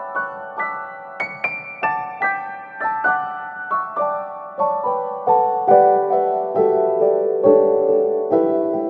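Piano music: a slow, gentle melody of single struck notes, about two to three a second.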